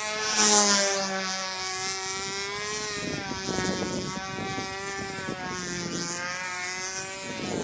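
O.S. .20 FP two-stroke glow engine of a Flite Streak control-line model plane running steadily in flight, its pitch wavering gently up and down as the plane circles. It is briefly louder about half a second in.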